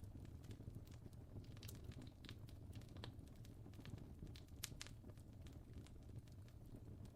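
Fire crackling faintly, with irregular sharp pops and snaps over a steady low rumble.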